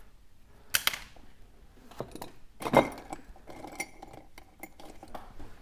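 Small phone-repair tools being picked up and set down on a hard work surface: scattered light clinks and taps, with a sharper click about a second in and the loudest clink near three seconds in.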